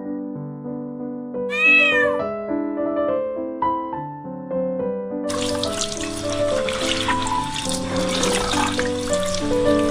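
A cat's short meow about two seconds in, over background music; from about five seconds a tap runs water into a sink, a steady splashing rush that lasts to the end.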